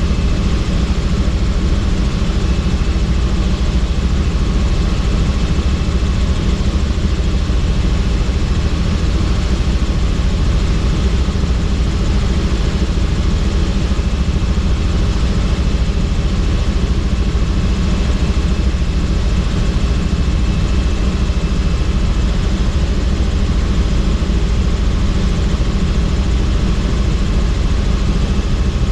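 Helicopter in flight heard from inside its doors-off cabin: steady rotor and engine noise with a heavy low rumble and a faint high whine over it.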